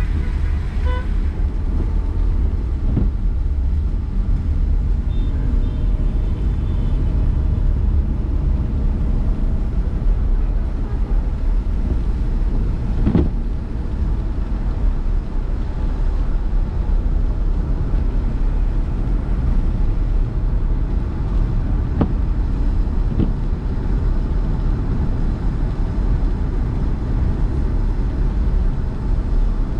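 Steady low rumble of a car driving: engine and road noise, with a few short knocks along the way.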